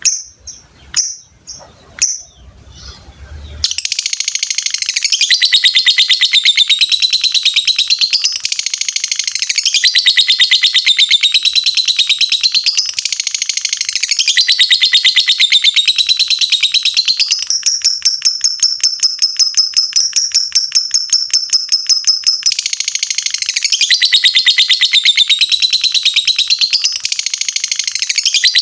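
Lovebird giving a few separate short chirps, then, from about four seconds in, a long unbroken rapid chattering trill (ngekek) that rises and falls in pitch. Between about 17 and 22 seconds the trill turns steadier and higher before going back to its rising and falling pattern.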